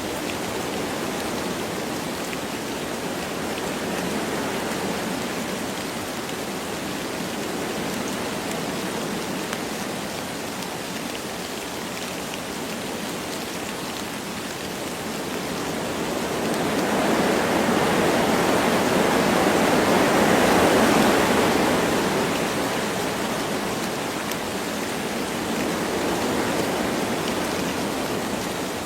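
Wind rushing through forest trees with light rain, a steady hiss that builds into a stronger gust about two-thirds of the way through, then eases back.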